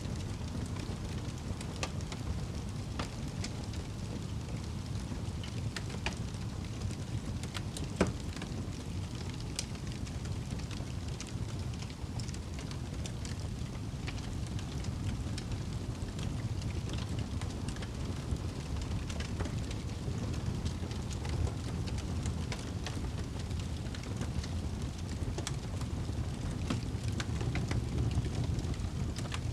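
Wood fire burning in a fireplace: a steady low rush of flames with scattered sharp crackles and pops, one louder pop about eight seconds in.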